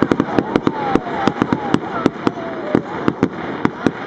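Fireworks display: a rapid, irregular volley of sharp bangs and crackles, several a second, with a faint falling whistle running through it.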